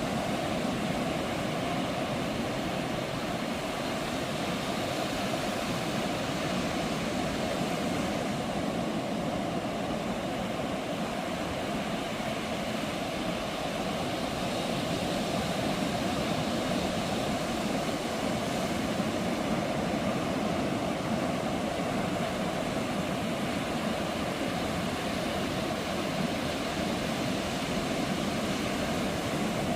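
Ocean surf on a beach: a steady, continuous rush of breaking waves with no distinct swells.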